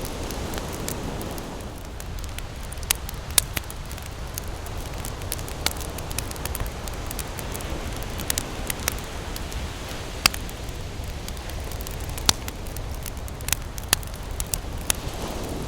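Wood campfire crackling, with scattered sharp pops over a steady low rumble of ocean waves. The wave wash swells near the start and again near the end.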